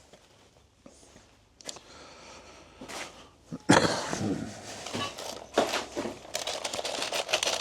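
Rustling and crinkling, then a quick run of small clicks and clatters as things are handled and rummaged through, starting suddenly about halfway in after a quiet stretch.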